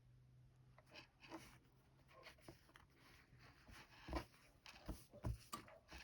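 Quiet rustling and scratching of hand sewing: needle and thread drawn through fabric, with scattered soft taps, the loudest about four and five seconds in.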